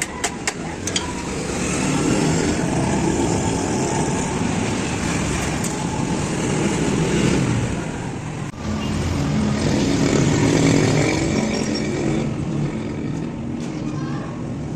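Honda CD 70 motorcycle's small single-cylinder four-stroke engine running and revving, swelling about two seconds in and again around ten seconds in. A run of quick ticks sounds in the first second.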